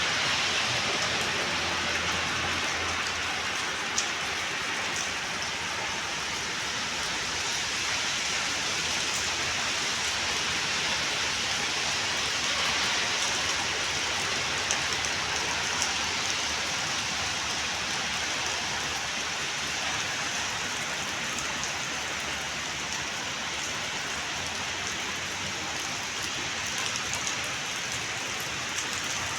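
Steady heavy rain falling and pattering on hard surfaces, with a few sharper drop ticks now and then.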